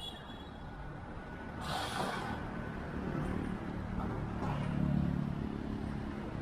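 Road traffic passing: vehicle engines running, with a short hiss about two seconds in and an engine note swelling around five seconds in.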